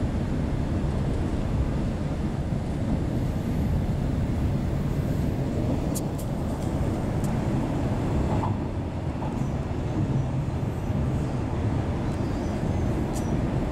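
Inside the carriage of a Queensland Rail electric train running along the line: a steady low rumble of wheels and running gear. A few faint, short high clicks come about halfway through and again near the end.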